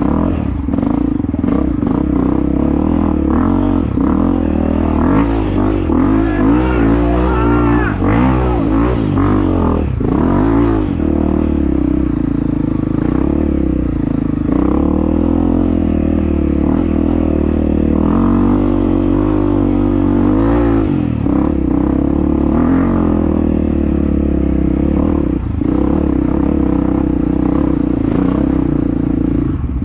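Honda CRF250F dirt bike's single-cylinder four-stroke engine revving up and down under load, its pitch rising and falling repeatedly as the throttle is worked.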